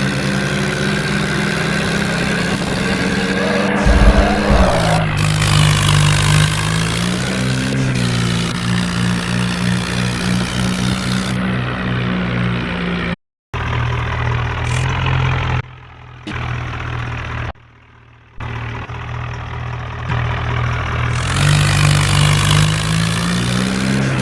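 Tractor diesel engine running steadily under load, its pitch rising a little about four seconds in and again near the end; the sound cuts out briefly twice midway.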